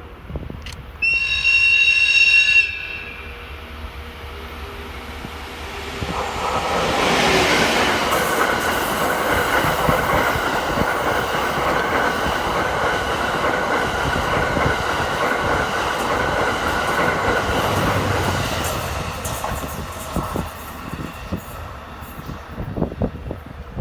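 An EF81 electric locomotive sounds one short blast on its whistle, then rolls past hauling a string of sleeper coaches: a long rumble of wheels with a steady high ringing over it, fading away near the end.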